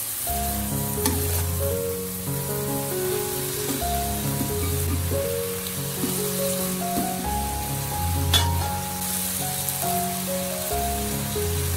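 Fish, shredded ginger and soybeans sizzling in a metal wok as a spatula stirs them, with two sharp taps of the spatula on the pan, about a second in and past the middle. Background music with a bass line plays throughout.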